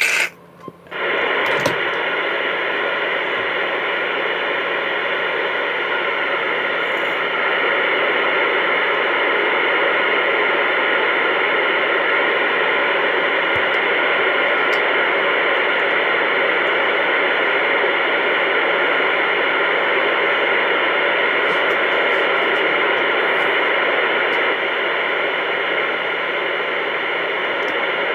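Two-way radio receiver hissing with steady static on an open channel, no station coming through; the hiss comes in about a second in after a short drop, with its receive preamp switched off.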